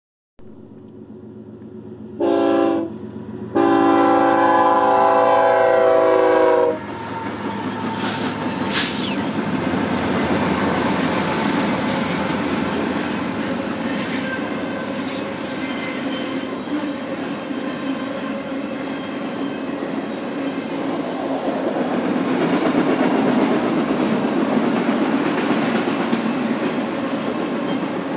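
Freight train locomotive horn: a short blast, then a long blast of several tones held for about three seconds. The train then rolls past with a steady rumble of wheels on the rails that swells again near the end.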